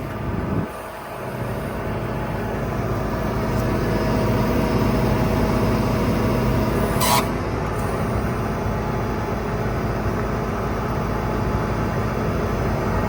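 New Holland T6 180 tractor's diesel engine running steadily, growing louder over the first few seconds. A brief sharp sound cuts through about seven seconds in.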